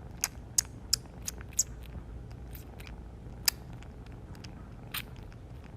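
Crunching chewing: sharp clicks about three a second for the first two seconds, then a few scattered ones, over a low steady hum.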